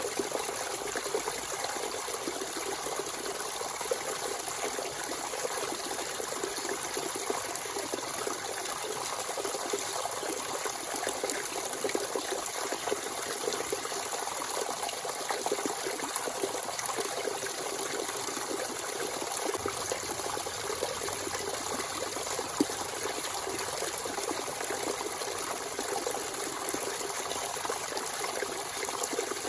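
Natural spring water running and trickling steadily, with a splashing patter from the flow.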